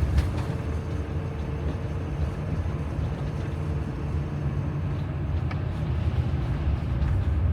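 Steady low rumble of a motorhome's engine and tyres on the road, heard from inside the cab while driving. A faint steady hum sits in the noise for a few seconds in the first half.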